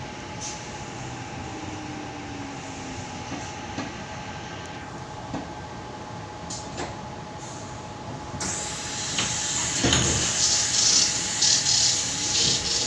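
Inside a Tangara electric train car running between stations: steady running noise with a constant hum. About eight seconds in, a loud rushing hiss swells up and stays.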